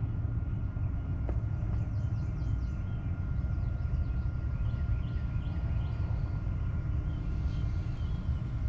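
Outdoor ambience: a steady low rumble with a faint steady high tone, and scattered faint high chirps.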